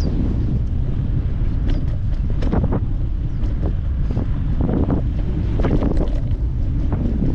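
Wind buffeting the microphone of a moving bicycle rider in a steady low rumble, with scattered short knocks and rattles.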